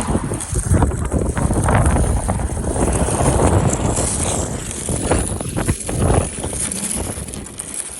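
Wind buffeting the microphone beside a highway, with the rumble of passing traffic.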